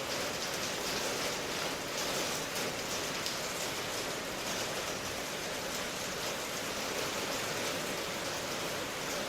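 Steady, even rain noise with a fine hiss and no distinct drops or thunder.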